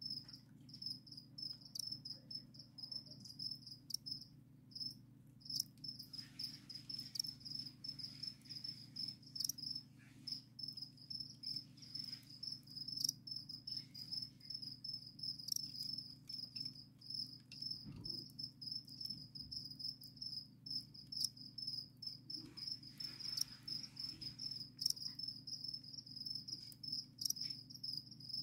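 Crickets chirping in a continuous high, pulsing trill, with a short pause about four seconds in. A low steady hum runs underneath.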